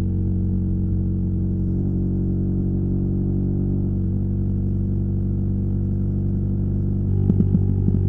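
BMW R nineT's boxer twin engine running through a Competition Werkes slip-on exhaust at a steady engine speed, with a brief uneven pulsing about seven seconds in.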